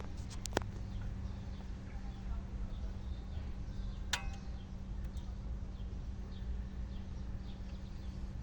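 Engine idling with a steady low hum as it warms up. Faint bird chirps are heard, and there are two sharp clicks, about half a second in and about four seconds in.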